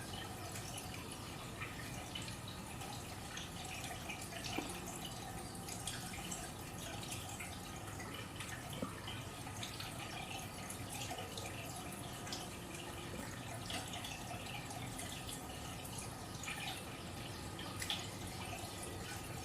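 Water trickling and dripping steadily, with many small irregular drips and splashes.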